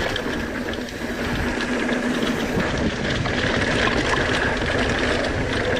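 Mountain bike descending a dirt jump trail at speed, heard from the bike: a steady rush of wind and tyre noise with small rattles over the bumps, and the rear hub's freewheel buzzing as it coasts.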